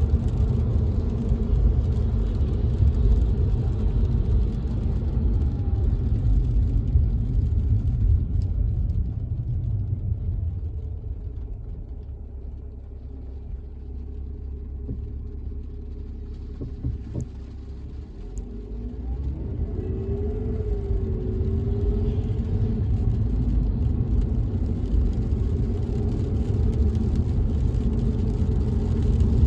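Car-interior road and engine rumble while driving in the rain: a steady low rumble that eases to a quieter stretch about a third of the way in, then builds back up around two-thirds of the way through.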